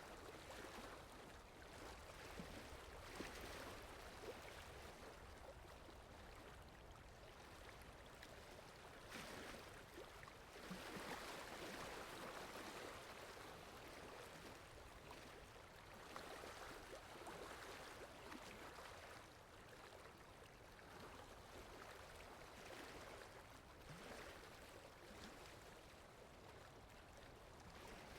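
Faint rain-in-the-forest ambience: a soft, even hiss of rain and running water that swells and eases over several seconds, with no music audible.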